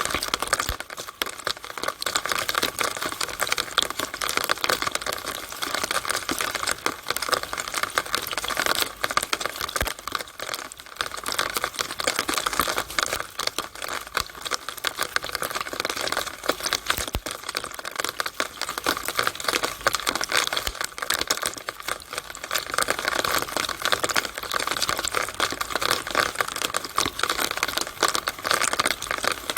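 Rainwater running down a downspout in the rain: a steady, dense patter of many small drips and splashes.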